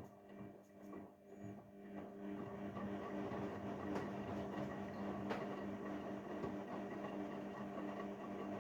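Haier 7.5 kg washing machine running its delicate wash cycle: a steady motor hum that builds up about two seconds in and holds, over a bed of churning noise.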